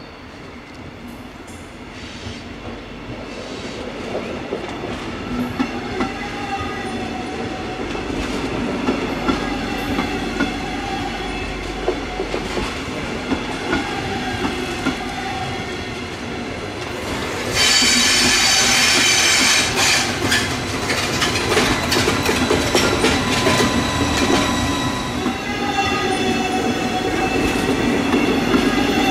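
Double-deck passenger train with an electric locomotive passing on a curve: a steady rail rumble with clicks over the rail joints and a wavering squeal from the wheels, growing louder as it approaches. A little past halfway it becomes suddenly louder and brighter as the double-deck coaches run close by.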